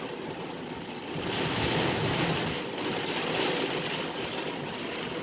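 Heavy rain pelting the car, heard from inside the cabin: a steady hiss that grows louder about a second in.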